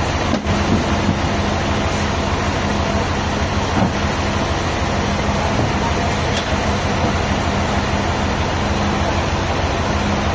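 A heavy engine running steadily with a low, even hum, with a couple of faint knocks early on.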